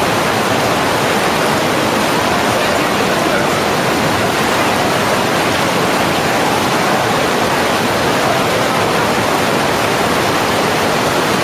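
A waterfall's steady loud rush of falling water, an even roar with no breaks.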